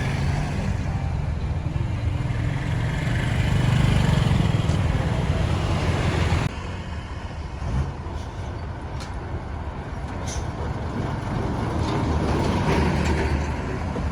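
Busy-road traffic noise dominated by a low engine rumble from passing vehicles. The level swells about four seconds in, then drops suddenly about six and a half seconds in and runs on steadier and quieter.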